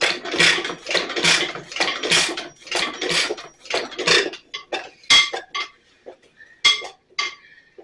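Metal clinking and clattering as metal parts and tools knock together: a dense run of clanks for about four and a half seconds, then scattered single clinks, some of them ringing briefly.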